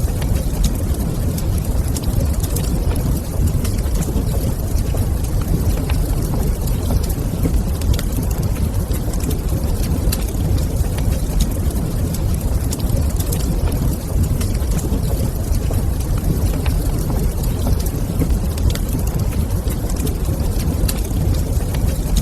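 Log fire crackling in a stone fireplace: scattered small sharp pops and snaps over a steady low rumble.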